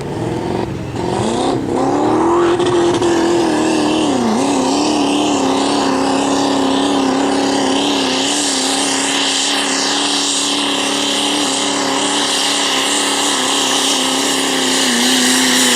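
Diesel pulling truck's engine under heavy load during a truck pull: the revs climb sharply about a second in, sag briefly near four seconds, then hold steady at high revs.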